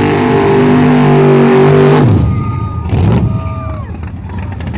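Car engine held at high revs during a burnout, with the hiss of spinning tyres, until the revs are cut suddenly about two seconds in; a short sharp pop follows about a second later.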